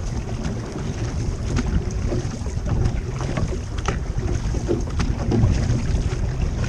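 Wind buffeting the microphone over water rushing past a moving outrigger canoe, with irregular short splashes from paddles.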